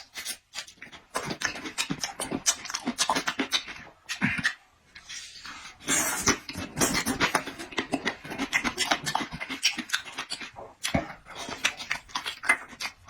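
A person chewing food noisily close to the microphone: a fast, irregular run of wet lip smacks and mouth clicks, with breathing between bites.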